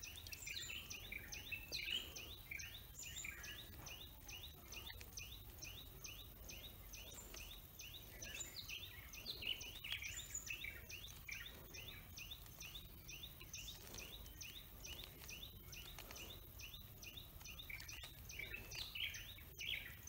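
Faint, rapid bird chirps repeating several times a second, with soft clicks now and then from the layers of a 3x3 Rubik's cube being twisted.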